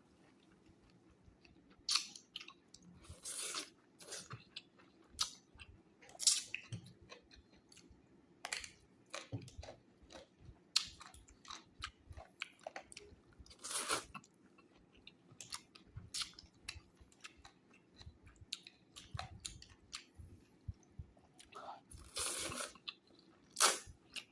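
Close-miked eating of instant noodle soup with bamboo shoots: chewing and crunching with irregular wet mouth clicks and smacks, broken by several longer hissy bursts of about half a second.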